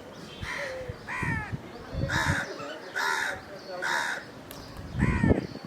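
A crow cawing, about six harsh caws roughly a second apart, the last one loudest.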